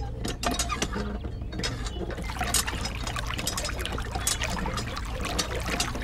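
Lever of a miniature hand water pump being worked by hand, its mechanism clicking and clattering irregularly. From about two seconds in, a thin trickle of water joins.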